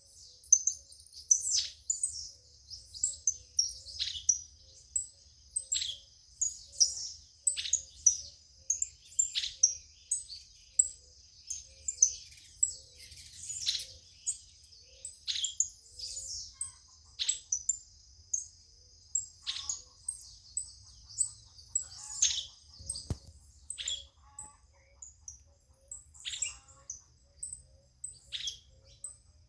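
Songbirds chirping: one repeats a sharp call that drops steeply in pitch about every one and a half to two seconds, over many short high chirps and a steady high hum. A single knock about three-quarters of the way through.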